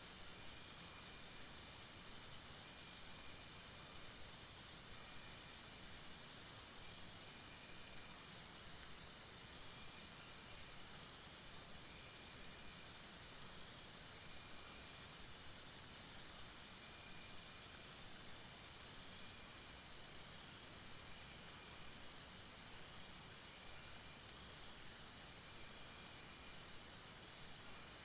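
Night insect chorus in tropical forest: steady, fast-pulsing trills that go on without a break, with a higher, short chirping burst from another insect every few seconds.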